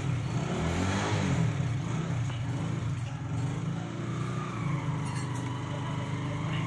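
An engine running steadily at an even, unchanging speed, a low hum.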